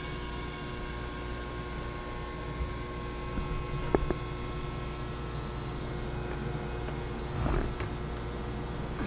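Steady hum of refrigeration machinery with a short, high beep repeating about every two seconds, and a few clicks about four seconds in and again near the end.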